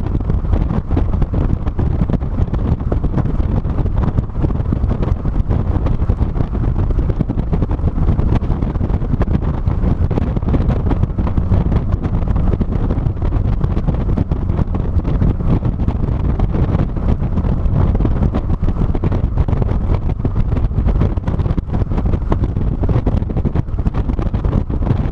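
Heavy wind buffeting the microphone of a GoPro mounted on a car driving at speed, a steady low noise with road noise under it.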